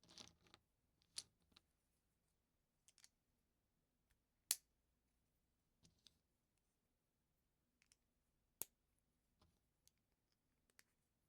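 Plastic LEGO pieces being handled and pressed together: a brief rustle at the start, then a dozen or so sharp, irregularly spaced clicks, two of them noticeably louder.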